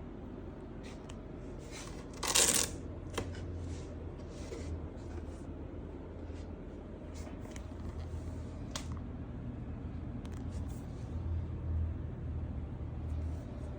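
Scattered rustles and light clicks, with one louder, longer rustle about two seconds in, over a low steady hum.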